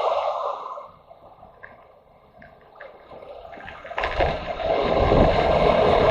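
Motorcycle engine and riding noise fading away over the first second into a much quieter stretch with a few faint high chirps, then cutting back in abruptly and loud about four seconds in.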